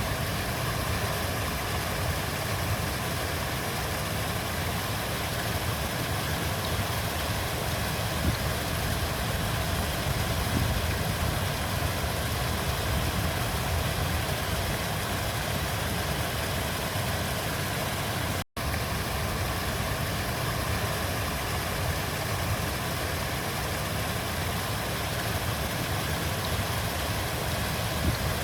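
Steady rushing of flowing river water, an even unbroken wash of noise. It cuts out for an instant about eighteen seconds in.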